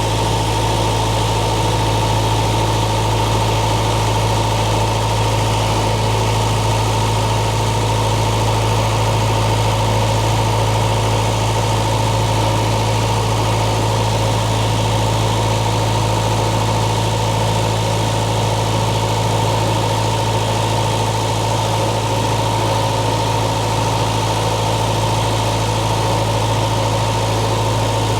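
Case 1840 skid steer loader's diesel engine running at a steady idle, with a constant high whine over the engine hum; no change in engine speed.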